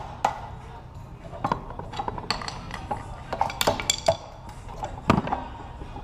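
Irregular metallic clicks and clinks of hand tools and small metal engine parts being handled, with a louder clank about four seconds in and another about five seconds in.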